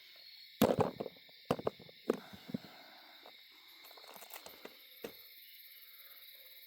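Several sharp knocks and thumps with rustling between them, the loudest about half a second in, as a freshly landed small blue catfish and the line are handled. Insects chirr steadily in the background.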